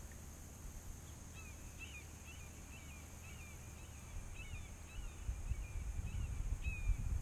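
A small bird calling in a steady run of short chirps, about two a second, starting a little over a second in, over a faint, steady high-pitched drone. A low rumble grows in the second half.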